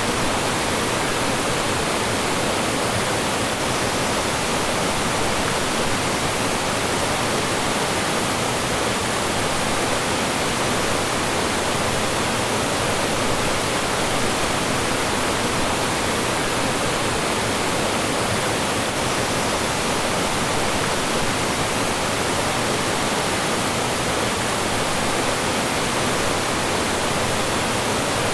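Mountain stream rushing over rocks, its flowing and falling water making a steady, even rush with no breaks.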